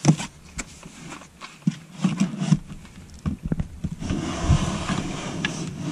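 Knocks and clicks from a truck camper's exterior storage compartment being opened and handled, with a loud knock right at the start and a stretch of scraping rustle from about four seconds in.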